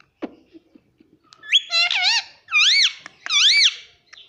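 Pet parrot giving three loud, high-pitched calls in a row, each with a wavering up-and-down pitch, starting about a second and a half in.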